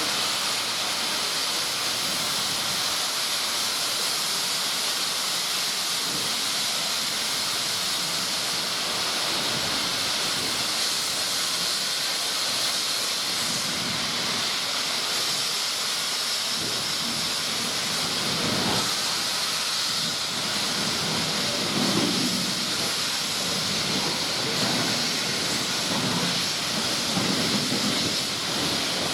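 Steam locomotive letting off steam: a steady, unbroken hiss, with faint low rumbles and murmurs underneath in the second half.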